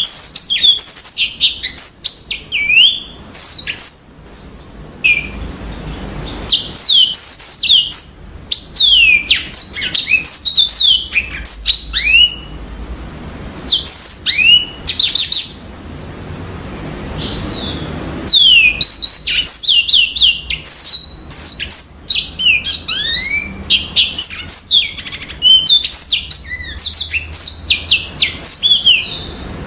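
Yellow-fronted canary (Mozambique canary) singing: quick runs of high, clear chirps and trills in phrases, broken by a few short pauses.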